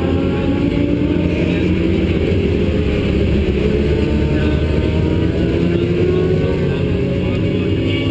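Vehicle engine running hard around a race track, heard onboard, its pitch climbing and falling with the throttle.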